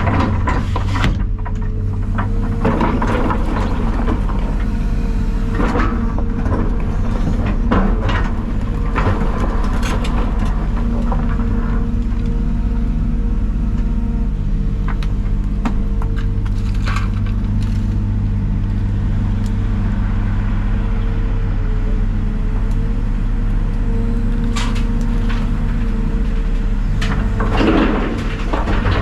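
Heavy diesel equipment engine running steadily under load, with scattered metallic clanks and rattles over the drone.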